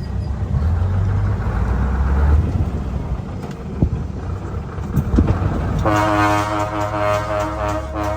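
Scania cabover truck's diesel engine running low and steady, then about six seconds in its horn sounds one long blast.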